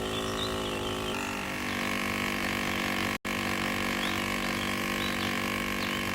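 A motor engine running steadily, its pitch settling slightly about a second in, with a brief dropout about three seconds in.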